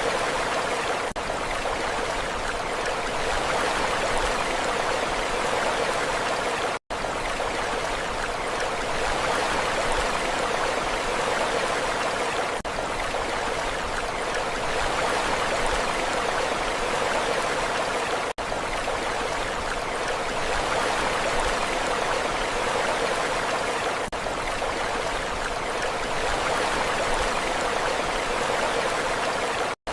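Steady rushing water, an even wash of noise with no rise and fall of swells, broken by a split-second gap about seven seconds in and another near the end.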